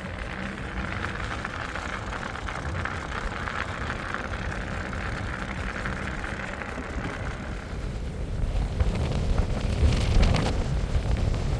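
Wind buffeting the microphone, a low rumble under a steady hiss, growing louder and gustier about eight seconds in.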